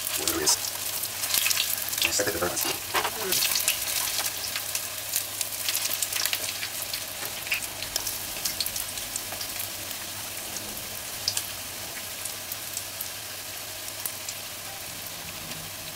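Saltfish fritter batter frying in hot oil in a pot, crackling and sizzling. The crackle is busiest in the first few seconds, as spoonfuls of batter go into the oil, then settles into a steadier sizzle.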